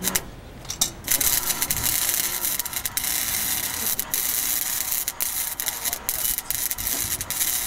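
Metalwork on a snapped motorcycle handlebar during its welding repair: a harsh, steady hiss shot through with sharp crackles. It starts about a second in and stops abruptly.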